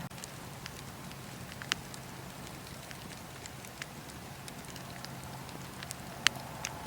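Wood fire crackling in a fireplace: a steady hiss with scattered sharp pops, two louder ones about two seconds in and near the end.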